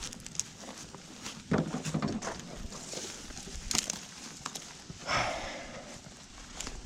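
Footsteps with scattered clicks and knocks, and a short scraping rustle about five seconds in.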